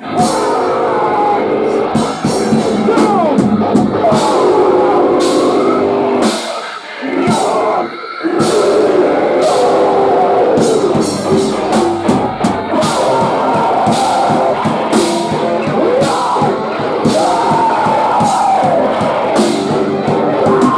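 Post-hardcore band playing live: guitars, drum kit and singing, with a short break about seven to eight seconds in before the full band comes back in.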